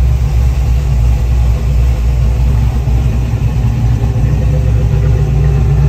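333 cu in small-block Ford V8 idling steadily at about 925–950 rpm, its timing set to 14° initial plus 18° of full manifold-vacuum advance for 32° total.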